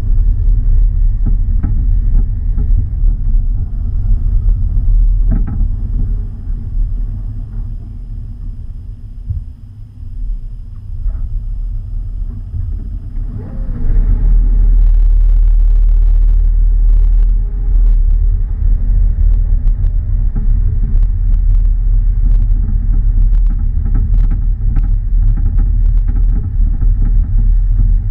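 Car driving, a heavy low rumble that dips quieter around ten seconds in and grows louder from about fourteen seconds, with scattered sharp clicks after that.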